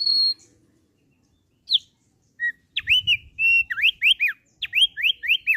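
Thick-billed white-eye singing: a short high whistle, a single falling note, then from about two and a half seconds in a rapid run of clear whistled notes that sweep up and down.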